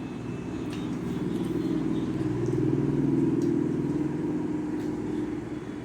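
A motor vehicle's engine passing by: a low hum that swells to its loudest about halfway through, then fades away. A few faint clicks sit under it.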